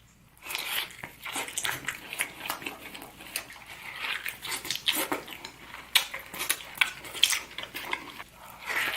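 Close-up mukbang eating sounds: chewing and mouth noises mixed with cutlery clicking against dishes, a fast irregular run of clicks and crackles that starts a moment after silence.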